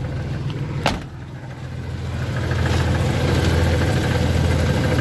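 The 1989 Chevy S10 Blazer's 4.3 V6 engine running, with one sharp click a little under a second in. The engine then grows louder over the next second or two and holds steady.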